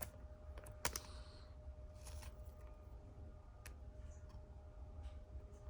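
Faint handling of a trading card and plastic penny sleeve: light rustling with a few sharp plastic clicks, the clearest about a second in.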